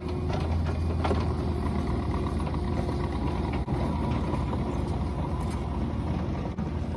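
Mini excavator's small diesel engine running steadily, with a few light knocks, about a second in and again later.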